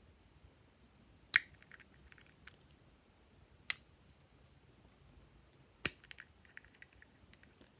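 Glossy slime being worked by hand, giving three sharp pops about two seconds apart, each followed by a few small crackles.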